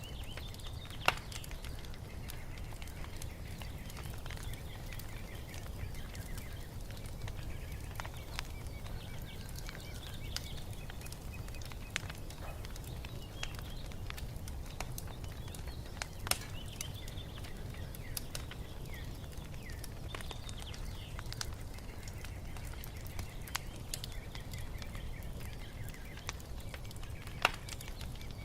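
Wood fire crackling, with a steady low rumble and a handful of sharp pops, the loudest about a second in and near the end. Birds chirp faintly throughout.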